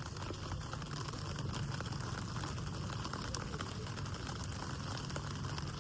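Light rain pattering steadily, with many small drop ticks.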